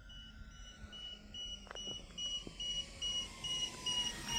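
Steady electronic beeping, about two to three short high beeps a second, over the faint whine of the RC airplane's motor sliding slowly down in pitch.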